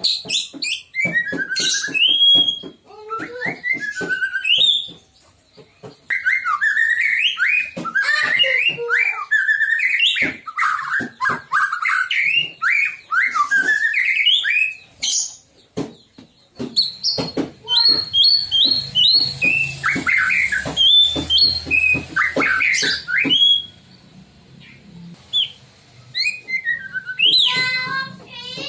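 White-rumped shama (murai batu) singing: fast, varied runs of loud whistled notes that glide up and down, mixed with sharp clicking notes, broken by a few short pauses.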